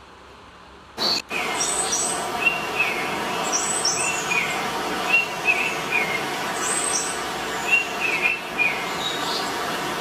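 Small birds chirping in short repeated phrases, over a loud steady rushing noise. The sound is muffled for about the first second, then comes back in full.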